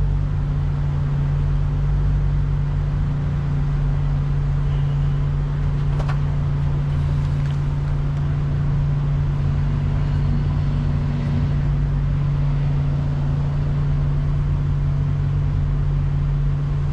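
Steady low engine drone, running unchanged throughout, with a single sharp click about six seconds in.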